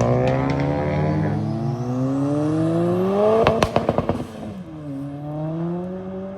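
Car engine revving up, its pitch climbing steadily for about three and a half seconds, then a quick run of sharp pops. After that the engine note drops and climbs again as the car pulls away.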